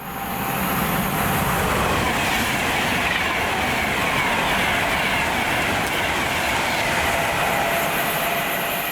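A train running along the track through the station, with a steady rush of wheel and running noise and a high whine that falls slowly in pitch.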